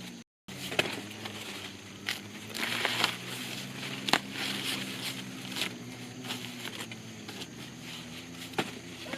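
Dry plant material rustling and crackling as it is handled, with irregular sharp snaps and a brief dropout just after the start.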